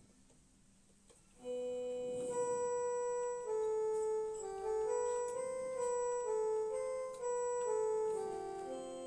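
Angelet XTS 690 electronic keyboard playing a simple melody, one sustained note after another, on a voice from its pipe category (flute-family tones). It starts about a second and a half in.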